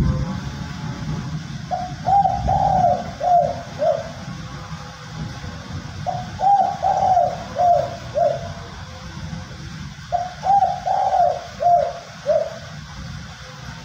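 Male spotted dove cooing in three phrases of several short, quick coos each, a few seconds apart, over a low background rumble.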